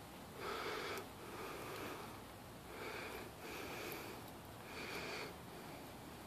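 Faint breathing through the nose close to the microphone: a soft breath about once a second, in and out.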